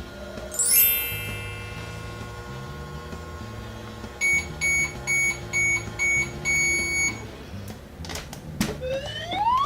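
Toy microwave's electronic beeps, five short beeps and then a longer one, over background music. A high sparkly chime comes about a second in, and a rising whistle near the end.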